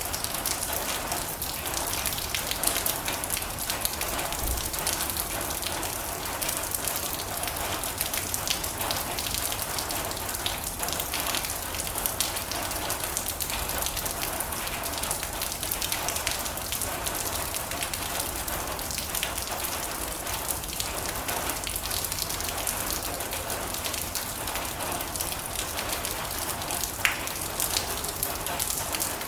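Heavy rain drumming steadily on a metal roof, a dense patter of drops, with one sharper drop or tick about 27 seconds in.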